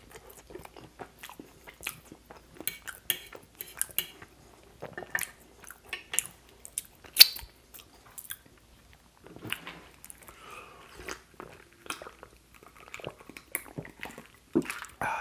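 Close-miked chewing of soft air-fried potatoes with sour cream: wet mouth clicks and smacks rather than a crunch, since the potatoes did not crisp. About seven seconds in, one sharp clink of a fork set down on the plate; near the end, gulps of a drink from a glass.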